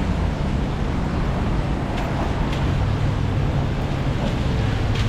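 Steady city street traffic noise with a low, continuous engine hum from vehicles nearby.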